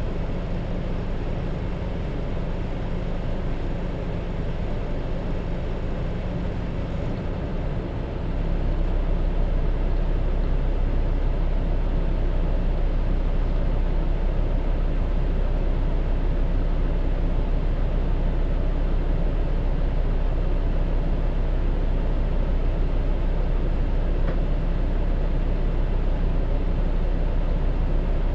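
Hino bus's J07E diesel engine running, heard on board, with steady road and drivetrain noise. About eight seconds in the deep engine sound grows louder and stays up.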